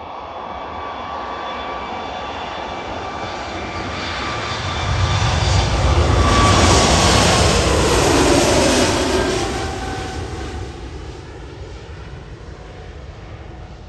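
Airbus A321neo's Pratt & Whitney PW1100G geared turbofans running at high power as the jet passes by. The noise swells to a peak a little before halfway, the engine whine drops sharply in pitch as the aircraft goes past, then the sound fades away.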